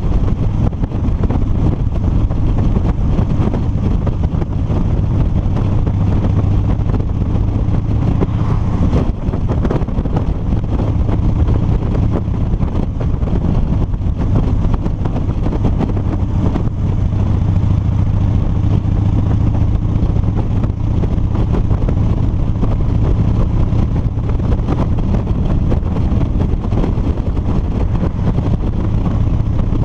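2007 Harley-Davidson Street Bob's Twin Cam 96 V-twin engine running steadily while cruising down the road, with wind noise over the microphone.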